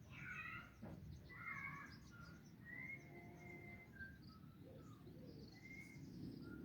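Faint bird calls: a series of short chirps and calls scattered through, over a low steady background rumble.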